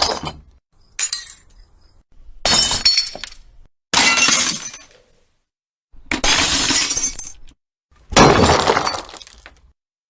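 Glass breaking and shattering, five separate breaks with short silences between, each a sudden crash that trails off within a second or so.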